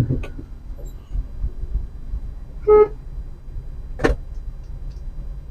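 A car horn gives one short toot about halfway through, over the low rumble of a car driving on the road. A sharp click or knock follows about a second later.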